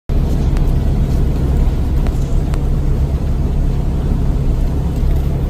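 Steady low rumble of road and engine noise inside a car travelling at freeway speed, with a few faint clicks.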